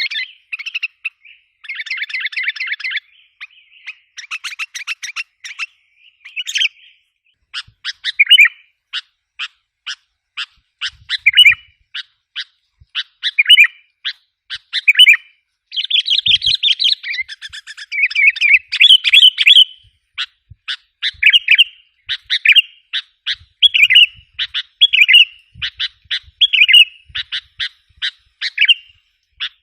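Sooty-headed bulbul calls used as a lure recording: runs of fast chattering notes, then short phrases of quick notes repeated about once a second.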